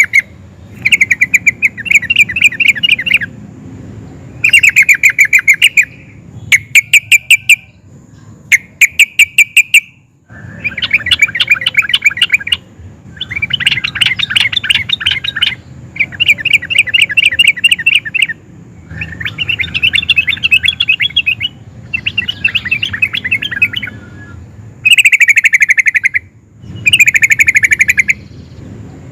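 Yellow-vented bulbul singing: phrase after phrase of quick, bubbling chattering notes, each burst a second or two long with short pauses between. Some phrases are louder than others.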